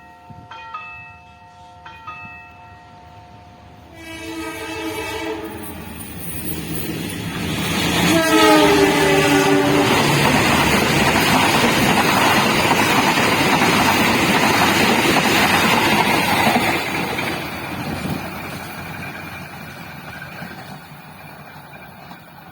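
A few ringing strikes of a station bell, then a train horn sounding twice: a steady blast, and a second one whose pitch falls as the train passes. The train then runs through with the loud noise of its wheels and cars, fading away near the end.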